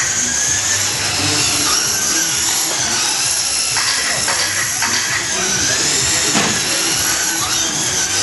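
Several radio-controlled short course trucks racing, their motors a high-pitched whine that rises and falls as they speed up and slow down. Occasional short clacks are heard among the whine.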